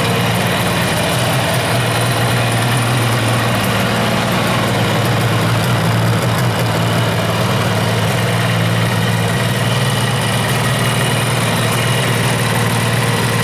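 Kawasaki 350SS S2 two-stroke three-cylinder motorcycle engine running steadily at idle.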